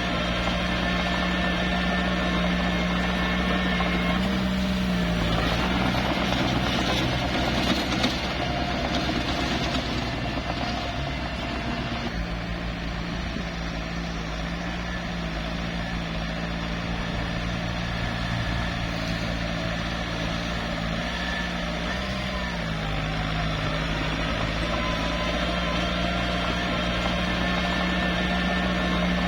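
Small bulldozer's diesel engine running steadily, its pitch rising and dipping a few times as it works.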